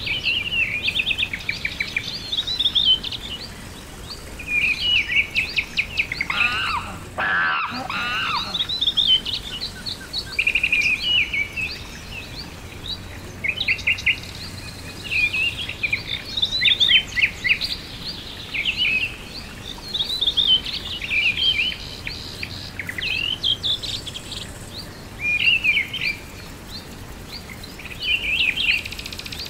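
Several songbirds singing and chirping in short trills and phrases, one after another. About six seconds in, a lower warbling call joins briefly, and the sound cuts out for an instant near eight seconds.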